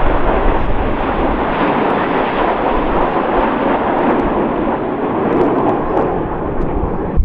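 Red Arrows' BAE Hawk jet trainers flying past, a loud, steady jet engine noise.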